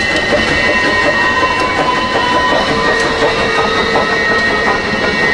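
Train running along the track: a steady, dense noise with a few thin high tones held over it.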